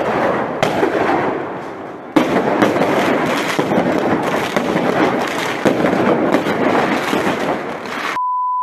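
Fireworks battery exploding in a dense run of bangs and crackle. It dips briefly about two seconds in, then resumes with a sharp loud bang. A steady beep tone cuts in just before the end.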